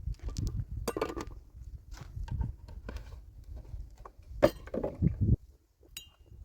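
Dishes and cookware being handled: a run of light clinks and knocks, one sharp knock about four and a half seconds in, and a brief ringing clink near the end.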